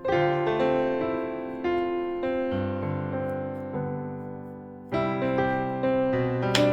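Background music: a slow, gentle piano piece, notes and chords struck one after another and left to fade.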